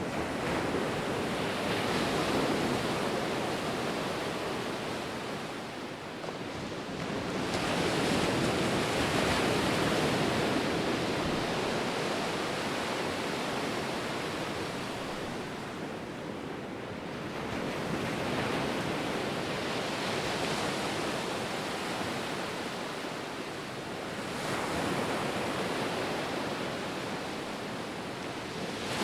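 Ocean surf: waves breaking and washing up the shore, the rush of water swelling and easing about four times, every six to ten seconds.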